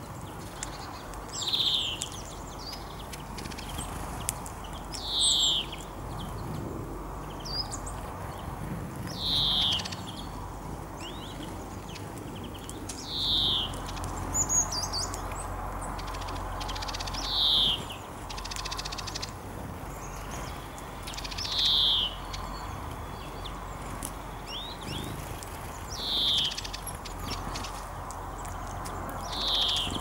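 A wild bird calling: one short note falling in pitch, repeated about every four seconds, with fainter chirps between over a steady background hiss.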